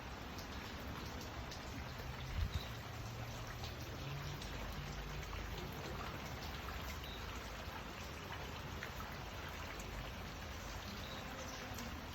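Steady rainfall, an even hiss with scattered drops ticking on surfaces. A brief low thump about two seconds in.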